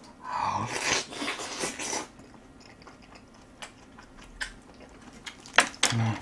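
A person eating close to the microphone: a loud, wet bite into a mouthful of braised rib with aged kimchi for about the first two seconds, then quieter chewing with scattered mouth clicks and two sharp smacks near the end.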